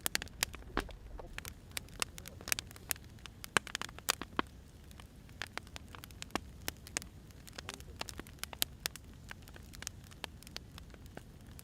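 Burning firewood crackling, with sharp irregular pops several times a second over a low steady hiss.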